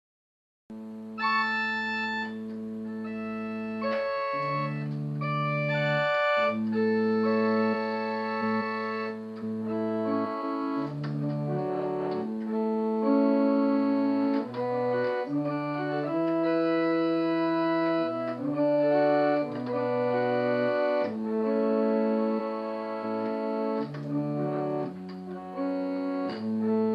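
Organ music: slow sustained chords that change every second or two, starting about a second in.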